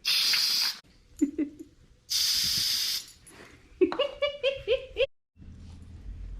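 Aerosol whipped cream can spraying in two short hisses about a second apart, followed by a burst of laughter.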